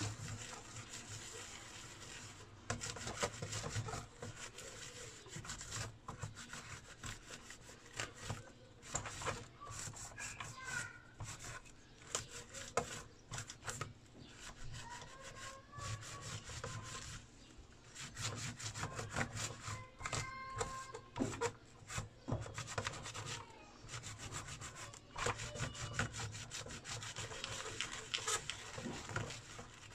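Rapid scratchy scrubbing strokes, cleaning soot off the burnt circuit board of an inverter whose IGBT has blown, with an occasional faint squeak.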